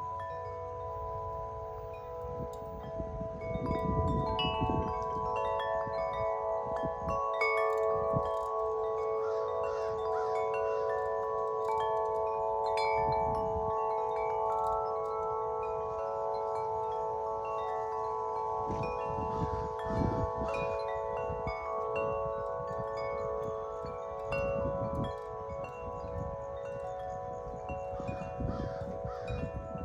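Two large sets of Corinthian Bells wind chimes, 50-inch and 36-inch, ringing continuously in strong wind: deep overlapping tones that sustain, with new strikes throughout. Gusts of wind rumble on the microphone now and then.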